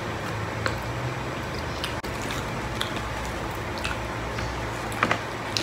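Close-up eating sounds of people chewing food eaten by hand: scattered short wet clicks and smacks about once a second, with a sharper pair about five seconds in, over a steady low hum.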